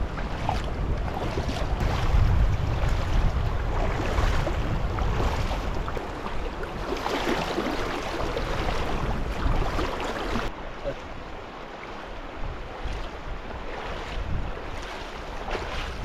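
Fast-flowing river rushing, with wind buffeting the microphone as a low rumble. About ten seconds in, the sound abruptly becomes quieter and duller.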